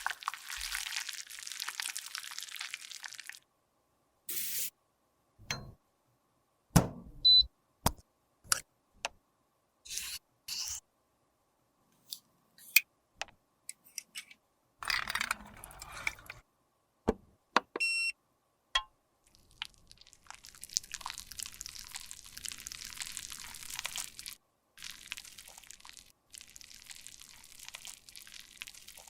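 Close-miked scraping and crunching of makeup product being crushed and worked by hand, with a string of sharp clicks and taps from tools and containers in the middle, and a longer scraping run near the end.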